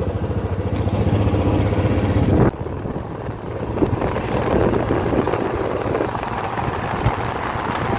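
Royal Enfield Classic 350 single-cylinder motorcycle engine running with a steady low hum; about two and a half seconds in the sound changes abruptly to a rougher engine note mixed with wind rush.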